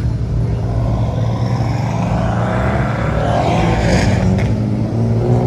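Car engine running with a steady low drone; about three seconds in a higher pitch sweeps up and back down.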